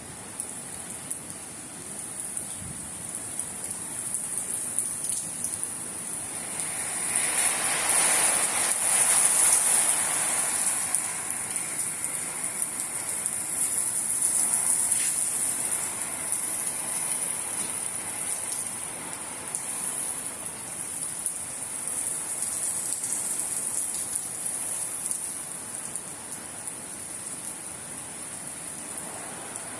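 Heavy thunderstorm rain pouring down: a steady hiss with dense patter that swells louder about seven seconds in and eases off a few seconds later.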